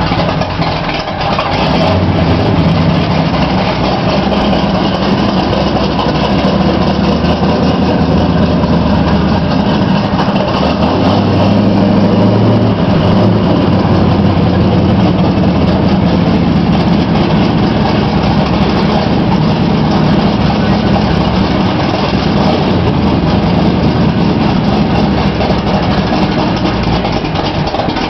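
Freshly built big-block V8 in a Ford gasser truck, running loudly at a steady idle.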